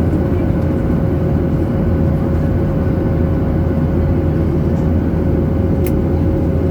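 Steady drone of a jet airliner's cabin, engine and airflow noise, with a thin steady hum tone running through it. A faint single tick comes near the end.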